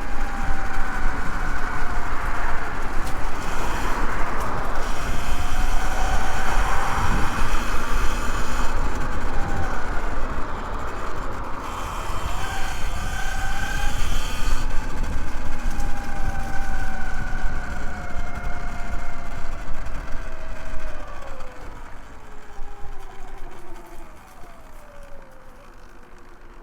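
Segway X160 (Sur Ron) electric dirt bike being ridden, its motor whining up and down in pitch with speed over a rush of wind on the microphone. Over the last few seconds the whine falls in pitch and the noise dies down as the bike slows.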